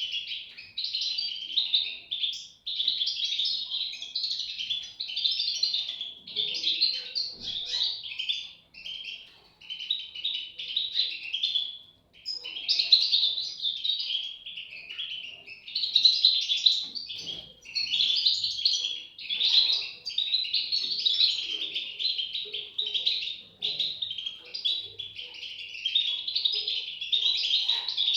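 European goldfinch chicks chirping in a dense, nearly unbroken twittering chorus, with a brief pause about twelve seconds in.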